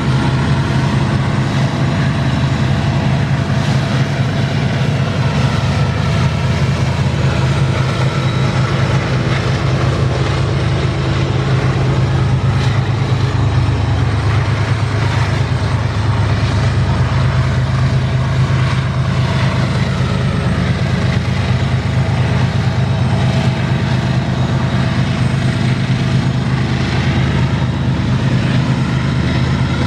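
Diesel-electric freight locomotive engines running with a loud, steady low drone.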